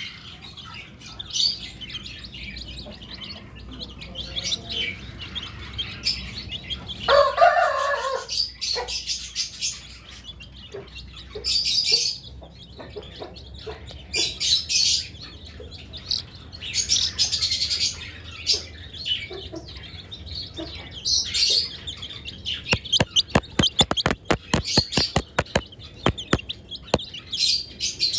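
Budgerigars chirping and chattering in an aviary, with a louder, lower-pitched call about seven seconds in. In the last six seconds there is a fast run of sharp clicks or taps.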